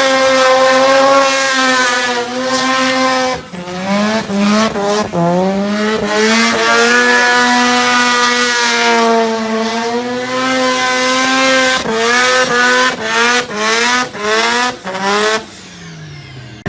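Turbocharged 13B two-rotor rotary engine in a Mazda Luce, held at high revs for a few seconds, then revving up and down hard. Near the end comes a string of sharp throttle blips before the revs drop away.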